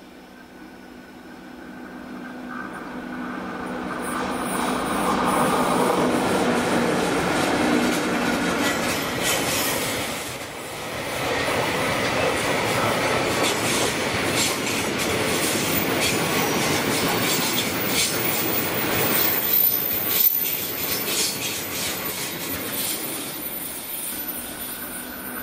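Two EF64-1000 electric locomotives hauling a long train of tank wagons pass close by. The train grows louder over the first five seconds as it approaches, then the wagons run past with a steady rumble and many wheel clicks over the rail joints. A thin high wheel squeal joins in during the second half.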